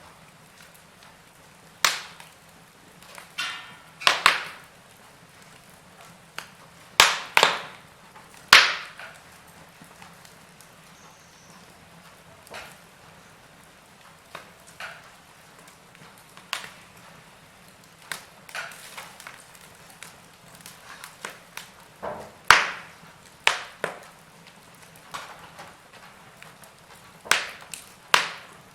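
Log fire crackling: irregular sharp pops and snaps of burning wood, a few loud ones among many small ticks, over a low steady background.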